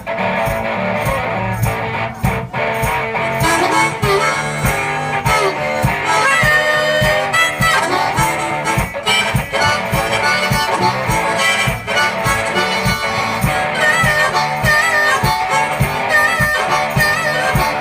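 One-man band playing an instrumental blues break: a harmonica solo with bending notes over guitar and a steady beat.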